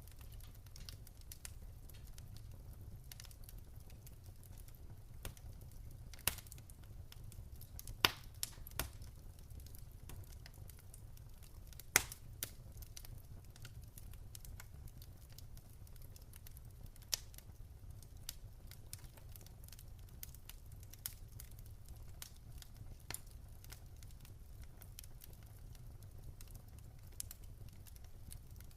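Wood fire burning in a fireplace: irregular crackles and sharp pops over a steady low rumble, with a few louder pops about 8 and 12 seconds in.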